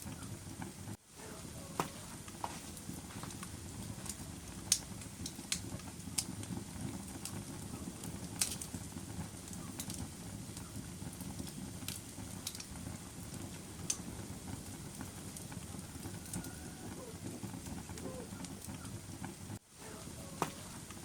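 Fire burning in a fireplace: a steady low rush of flame with irregular sharp crackles and pops, the loudest about five and eight seconds in. The sound drops out briefly twice.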